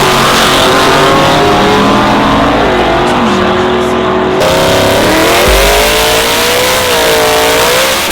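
Race truck engines running loud and revving. The pitch drops about three seconds in, the sound cuts abruptly partway through, and then an engine's pitch rises and swings up and down as it revs.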